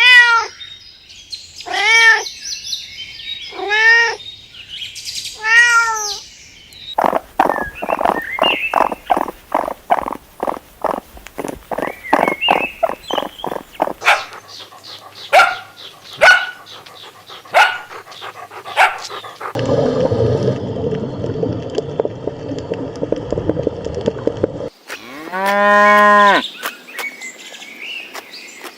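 A string of different animal calls: about three arching, pitched calls two seconds apart, then a rapid run of short pulsing calls, scattered short calls, and a rough noisy stretch. It ends with a cow mooing once.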